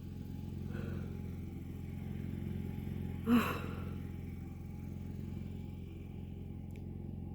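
Steady low hum of a running generator, with a person's short breathy sigh about three seconds in.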